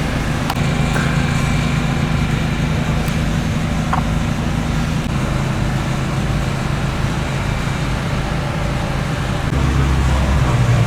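A vehicle engine running steadily at low revs, with no revving. Its note shifts slightly about halfway through and grows louder near the end.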